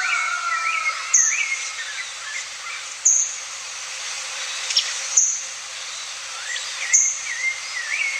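Several birds singing and chirping together, with a short high note repeating about every two seconds over a steady background hiss.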